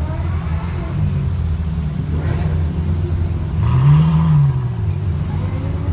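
Low, steady engine rumble from idling supercars, with a Ferrari V8 convertible's engine revving up once and easing back down about four seconds in as the car pulls away past.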